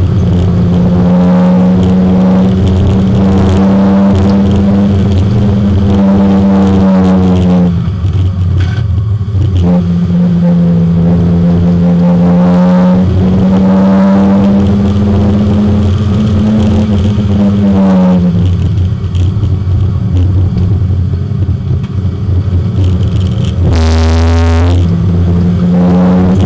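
Porsche 924 race car's four-cylinder engine running hard at high revs, heard from inside the car. The engine holds a steady pitch through long stretches, and the throttle is lifted briefly about eight seconds in and again around eighteen seconds. The sound changes abruptly for about a second near the end.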